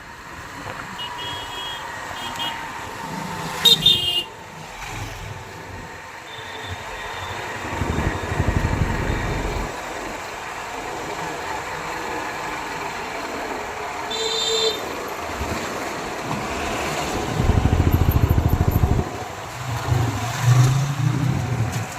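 Road traffic: vehicles passing with low rumbling surges, and short horn toots a few times.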